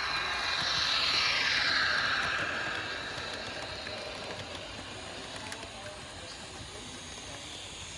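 Model train running past on an outdoor track: a hissing rush swells and falls in pitch over the first two seconds, then eases into a steadier, quieter hiss.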